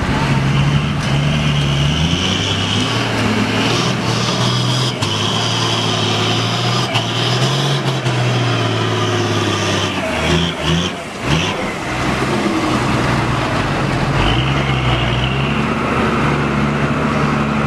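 Truck's diesel engine working under load in deep mud, its note rising and falling with the throttle. About ten seconds in it briefly drops off and stutters, then settles back to a steady pull.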